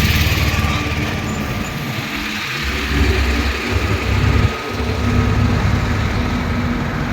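Heavy truck passing slowly, its diesel engine giving a steady low rumble, with road noise around it.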